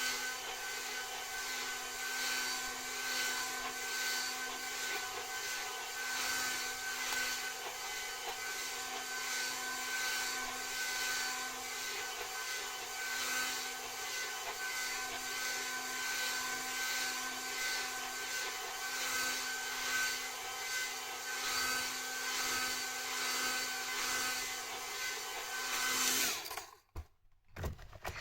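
Hair dryer blowing steadily, a rushing airflow with a steady motor whine, switched off abruptly near the end and followed by a few handling clicks.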